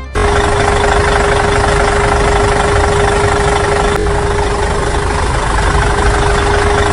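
Small electric motor running steadily with a constant whine over a rough buzz.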